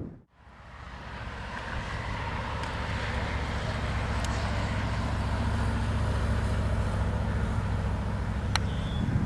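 Diesel locomotive engines rumbling steadily, growing louder over the first few seconds as the train approaches.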